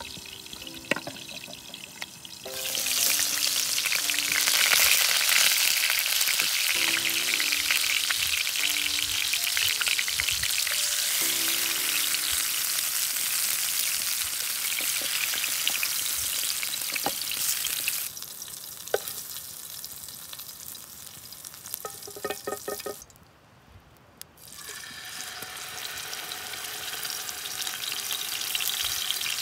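Pumpkin slices frying in hot oil in a pan: a loud steady sizzle starting a few seconds in, with a wooden spatula stirring. It dies down, breaks off briefly, and comes back as a lamb rib chop is laid into hot oil near the end. Faint music plays underneath.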